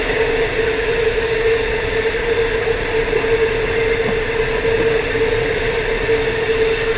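A train running, a steady noise with one constant tone held throughout.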